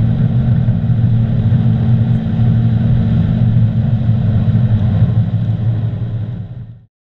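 Honda Civic Type R's turbocharged four-cylinder engine held near 7,000 rpm in sixth gear at close to top speed, heard from inside the cabin as a steady drone with road and wind noise. The sound fades out near the end.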